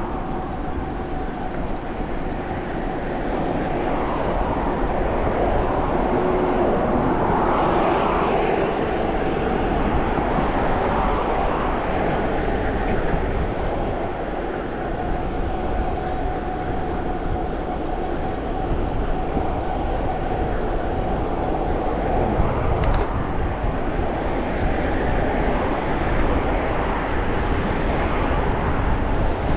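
Steady road and wind noise from a moving vehicle under way, with a low rumble and a faint steady hum. A single sharp click comes late on.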